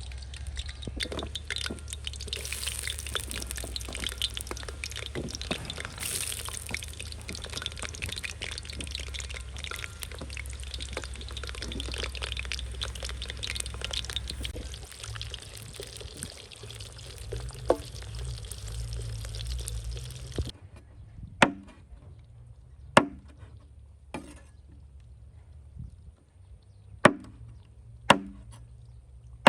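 Water pouring and trickling with small splashes and drips for most of the stretch, as food is handled in water. It cuts off suddenly and is followed by a knife chopping on a wooden board: six sharp strokes, roughly one every second or so.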